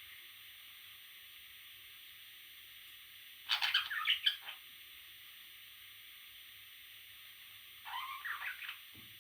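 Parrot chicks calling: two short runs of quick repeated calls, the first about three and a half seconds in and a softer one near the end, over a steady hiss.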